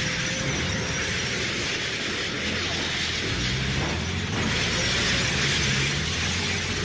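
War battle sound effect: a continuous dense rumble and roar of noise, steady throughout, with no separate single blasts standing out.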